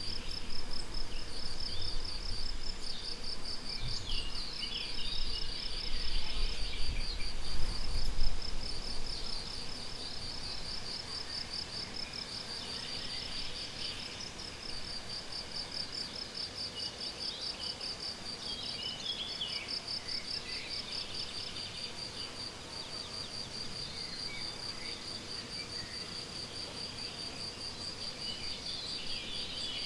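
Meadow crickets chirping in a steady, rapid high-pitched pulsing, with scattered short birdsong phrases a few times. A low rumble underlies the first third and then fades away.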